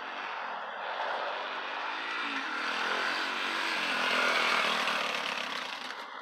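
Dirt bike engine running as the bike rides by, growing louder to a peak about four seconds in, then fading away.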